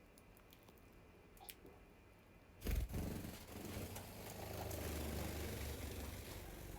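Faint scattered ticks, then, a little under three seconds in, a sudden loud rustling and scraping close to the microphone with a low rumble, running on for several seconds.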